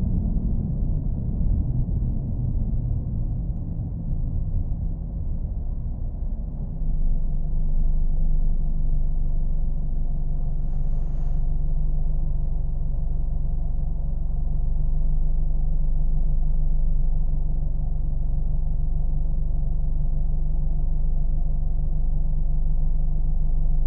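Car engine running with a low, steady rumble and hum; the sound shifts and gets a little louder about seven seconds in.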